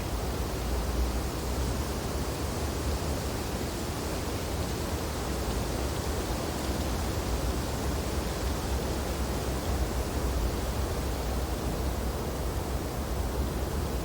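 Wind blowing steadily through tree branches in snowfall: an even, unbroken rushing noise, heaviest in the deep low end, with no gusts or separate events.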